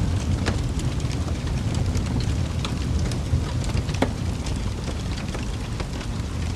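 Wood fire burning in a fireplace: a steady low rumble of flames with frequent irregular crackles and pops, one sharper pop about four seconds in.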